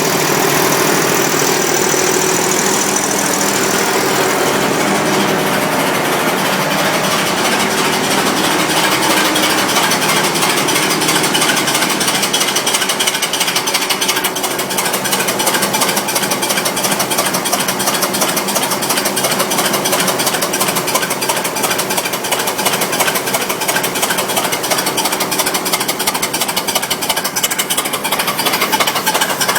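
Steam engine of a 9-inch-scale Sentinel-style steam waggon running on compressed air instead of steam: a rapid, even beat of exhaust puffs with a hiss of air. The beat comes faster and tighter after about eight seconds.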